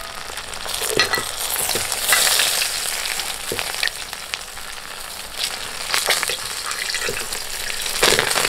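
Banana-leaf-wrapped chicken parcels sizzling in oil in a pan, with a steady frying hiss and scattered knocks and scrapes as the parcels are turned over.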